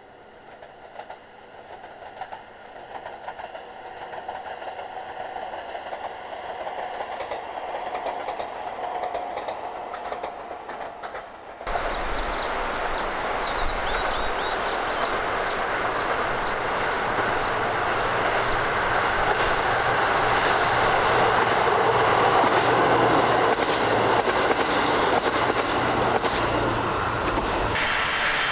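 A train approaching and growing steadily louder; then, after an abrupt jump about twelve seconds in, running past close by, its wheels clattering over the rail joints in quick clicks.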